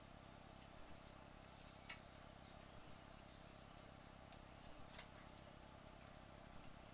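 Near silence: faint room tone with a steady low hum, a few faint ticks, and a short run of faint high chirps about two seconds in.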